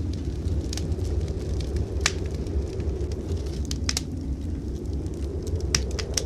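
Wood fire crackling in a fireplace: sharp, irregular pops, several close together near the end, over a steady low rumble.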